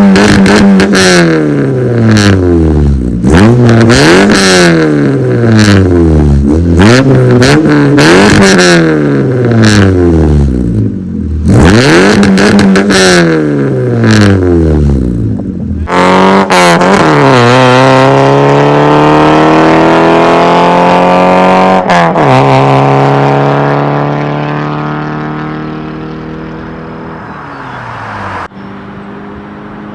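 Straight-piped 2005 PT Cruiser 2.4 inline-four, catless with a Thrush cherry bomb muffler, revved repeatedly, each rev climbing and dropping back. About halfway through it makes one longer run with slowly shifting pitch, then fades away over the last several seconds.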